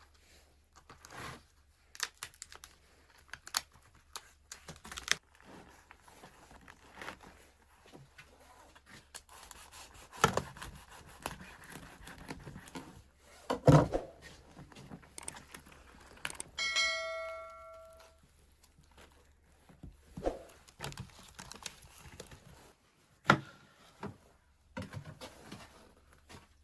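Objects being handled: scattered knocks, clicks and rustling, with a short ringing tone about two-thirds of the way in, like something struck and left to ring.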